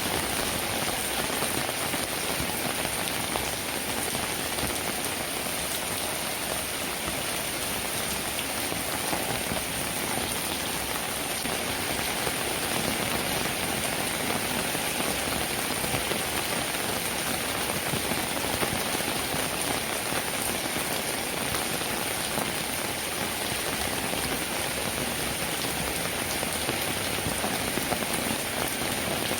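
Steady rainfall, a constant even hiss of raindrops pattering on surfaces.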